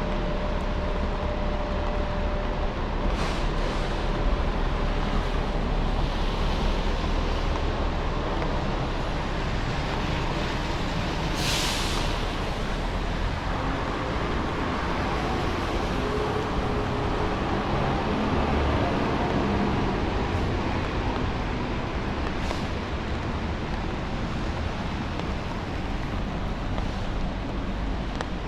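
Traffic on a rain-wet city street: a steady wash of passing vehicles and tyre noise. A short, sharp hiss of air stands out about a third of the way in, and a vehicle's engine note passes lower down later on.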